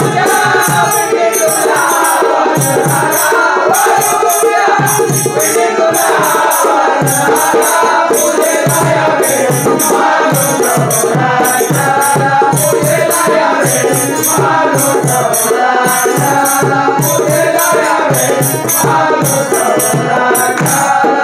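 Instrumental interlude of a Marathi bhajan: harmonium playing the melody over a steady dholki beat, with jingling hand percussion keeping time.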